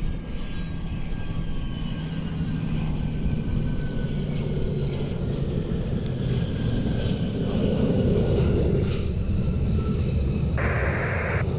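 Learjet business jet passing on approach, its turbine whine slowly falling in pitch, over a heavy low rumble of wind on the microphone. A short burst of radio static near the end.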